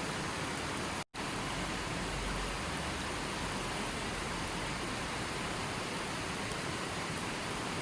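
Steady rushing of falling water. It drops out for an instant about a second in.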